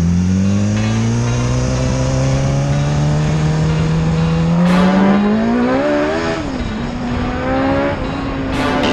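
Yamaha MT-03 motorcycle engine running under acceleration, its pitch climbing slowly. A little past halfway the pitch rises, then dips briefly before climbing again, and it drops once more near the end.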